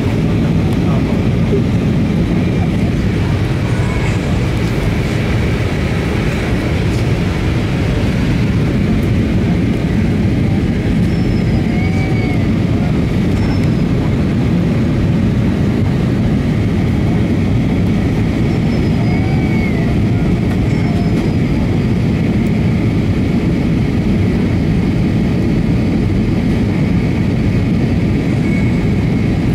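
Airbus A320 cabin noise in flight: the steady, even rush of engines and airflow, heaviest in the low end, heard from a passenger seat during the descent.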